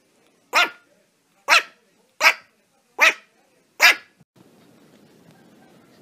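A Shih Tzu puppy barking five times, short sharp barks a little under a second apart.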